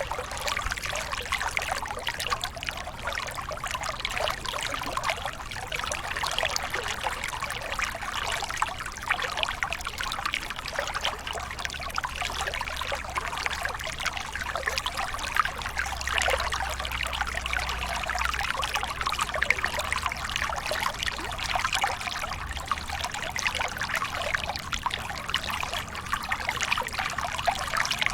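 Water falling and splashing steadily, as from a small waterfall, with many fine trickling splashes.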